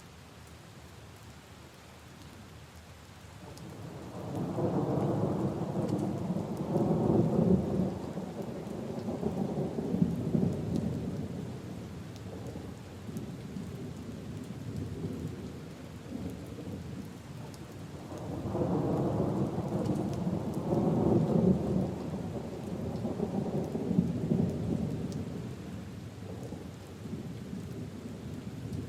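Steady rain with two long rolls of thunder, the first starting about four seconds in and the second about eighteen seconds in, each rumbling for several seconds before fading.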